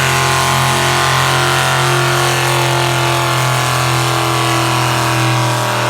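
Pulling vehicle's engine running loud at high, steady revs, the pitch easing slightly down partway through.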